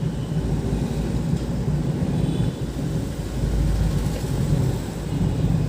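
Hyundai Xcent car being driven along a road: a steady low rumble of engine and tyre noise.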